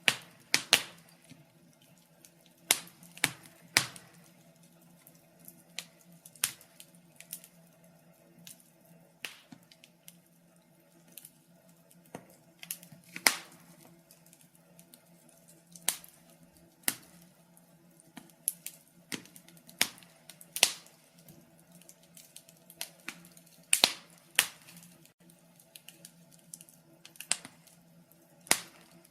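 Fire crackling: irregular sharp pops and snaps, a few much louder than the rest, over a faint steady low hum.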